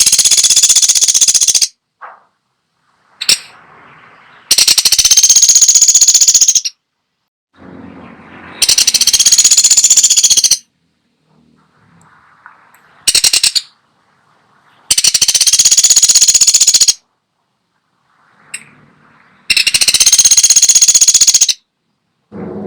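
Pelatuk sampit woodpecker giving loud, rapid rattling bursts of about two seconds each, repeated every few seconds, one of them much shorter.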